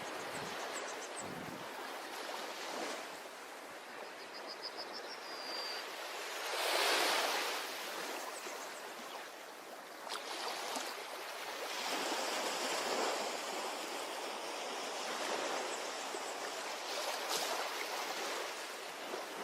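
Ocean surf washing on a tropical beach, with one wave swelling louder about seven seconds in. A high, quick run of chirps ending in a short held whistle is heard between about four and six seconds.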